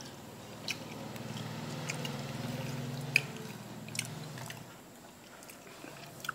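A person chewing food with the mouth closed, with a low hum for a few seconds and a few sharp clicks scattered through.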